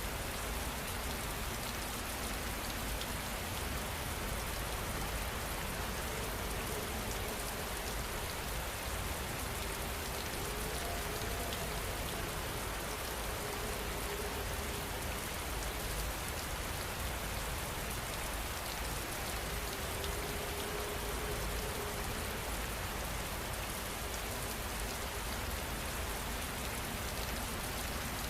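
Steady rain falling, an even, continuous patter with no breaks.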